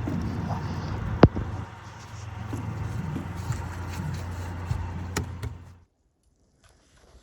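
A steady low engine hum with two sharp clicks, cutting off suddenly near the end.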